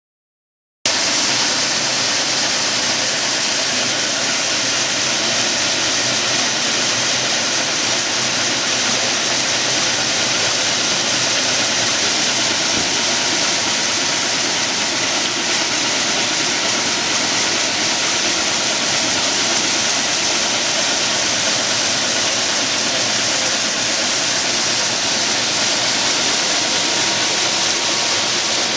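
Industrial plastic washing machine for recycling running steadily: a loud, even rushing noise of motor and water, with a faint steady whine. The noise starts abruptly about a second in.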